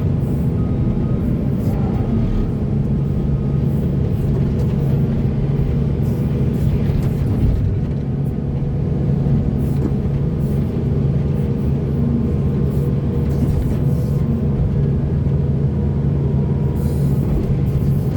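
Diesel engine of a heavy earthmoving machine running steadily, a constant drone that holds its pitch throughout.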